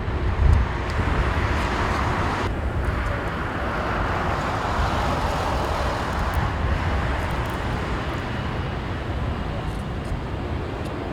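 Jet airliner on final approach passing low overhead, a steady noise that swells in the middle, with gusty wind thumping on the microphone near the start.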